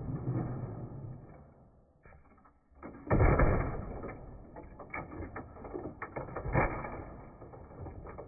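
A heavy kettlebell crashing onto a plastic robot vacuum: a loud, dull impact about three seconds in and another about three and a half seconds later, with a scatter of smaller knocks and rattles between them.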